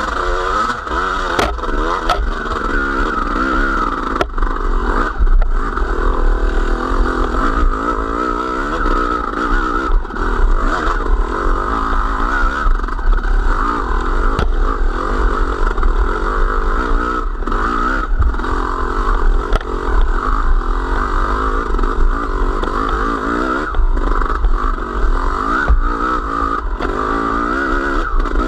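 Small vehicle engine running under way, its pitch rising and falling with the throttle, over a heavy low rumble and some clatter.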